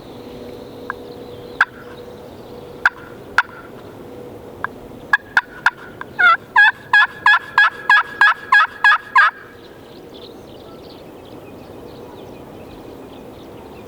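Turkey call worked by a hunter: a few soft single notes, then a loud, evenly spaced series of about a dozen yelps, roughly three a second, that breaks off about nine seconds in. The calling starts quiet and gets louder, to reach turkeys that may be close before reaching out to distant ones.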